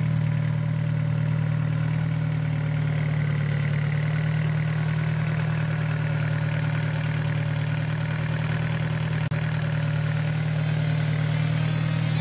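Modified 1.8-litre turbocharged four-cylinder (AGU) engine of a 1999 VW Golf IV idling steadily, heard close with the bonnet open.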